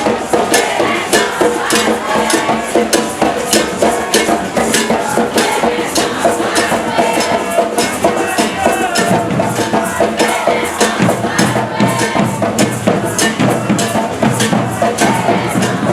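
Maracatu de baque virado percussion ensemble playing a steady, driving beat of sharp, fast strikes with a shaker rattle over it.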